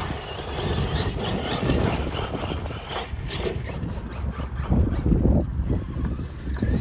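Losi DBXL-E 2.0 electric RC buggy driving, its brushless motor and drivetrain whining in pitch glides that rise and fall as the throttle is worked, over a steady low rumble.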